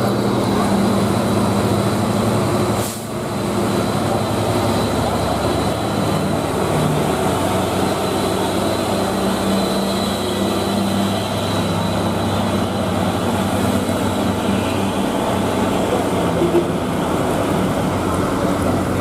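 Heavy diesel truck engines running in a steady low drone in slow traffic on a steep climb. There is a sharp click about three seconds in, and the sound dips briefly in level after it.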